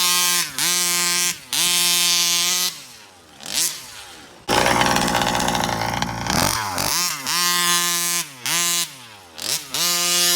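Stock 36cc two-stroke petrol engine of a 1/5-scale RC truck revving in repeated throttle bursts. Each burst climbs quickly, holds a steady high pitch and then drops back, with a longer lull near the middle and a stretch of rushing noise just after it.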